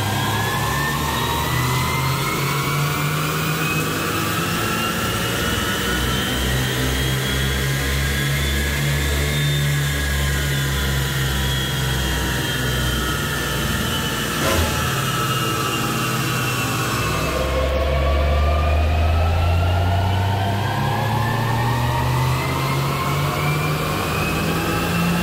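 Golf GTI Mk5's 2.0 TFSI turbo four, fitted with a Borla cat-back exhaust, running under load on a chassis dynamometer during a power run. The pitch climbs for the first several seconds, then sinks slowly. About two-thirds in, the sound changes abruptly and the pitch rises again.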